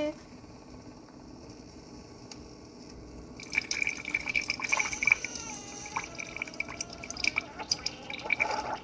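Keurig K-Iced coffee maker dispensing, coffee streaming and spluttering into a cup. It starts about three and a half seconds in.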